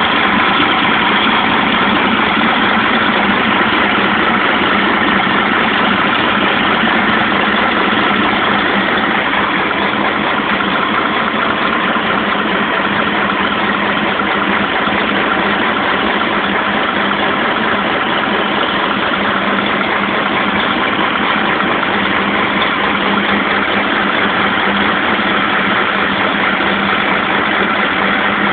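Freshly rebuilt Scania 113 truck engine, an 11-litre inline-six diesel, idling steadily on its test run after the rebuild.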